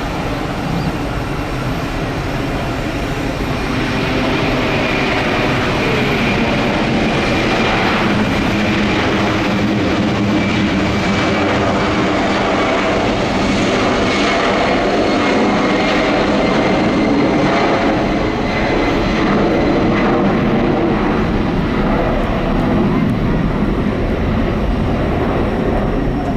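Boeing 747 jet engines, a loud steady rush with a faint high whine, growing a little louder about four seconds in.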